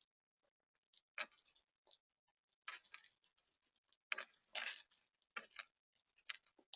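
Irregular taps, clicks and short crackling rustles of seed being picked over and cracked at a bird feeder. The loudest cluster comes about four seconds in.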